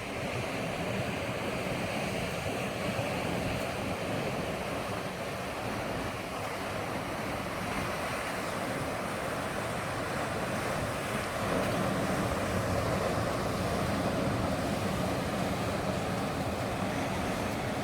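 Ocean surf washing against a rocky cove, a steady rush of waves with a slight swell near the middle, with some wind on the microphone.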